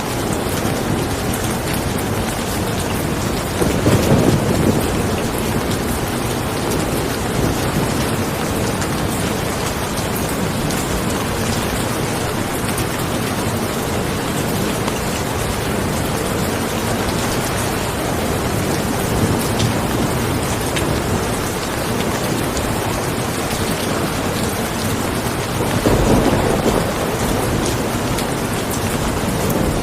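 Steady rain falling as an even hiss, with two short low rumbles of thunder, one about four seconds in and one near the end.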